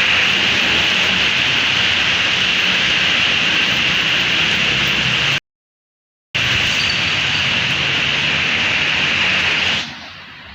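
Summer storm with strong wind: a loud, steady rushing roar, cut by a second of dead silence about halfway through, that falls away sharply just before the end.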